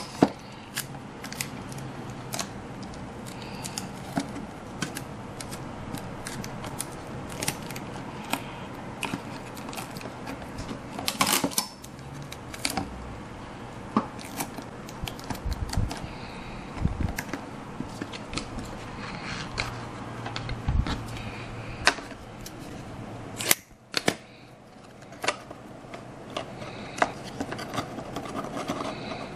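Scissors snipping and the small clicks and taps of craft parts being handled, irregular and spread throughout.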